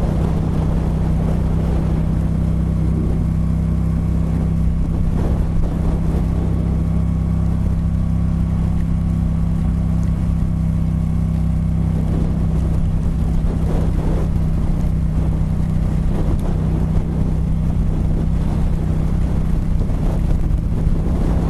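Motorcycle engine running at a steady pitch while riding, with wind rushing over the microphone.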